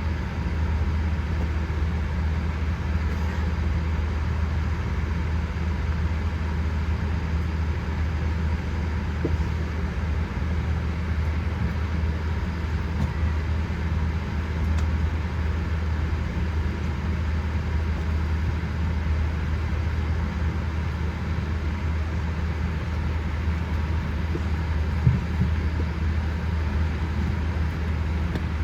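Steady low hum and rumble inside the cabin of a Boeing 787-8 airliner on the ground before takeoff, with one faint click about 25 seconds in.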